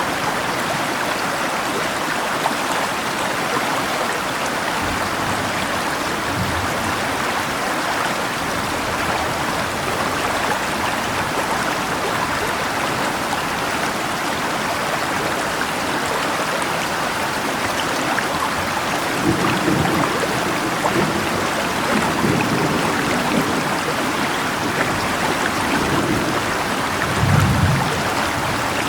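Steady rushing of a river mixed with falling rain. In the last third there are a few brief low rumbles, the loudest near the end.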